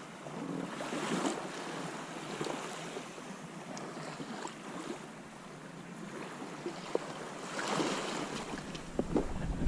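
Water washing and lapping around a kayak, with wind on the microphone and a few light knocks; a gust of wind buffets the microphone near the end.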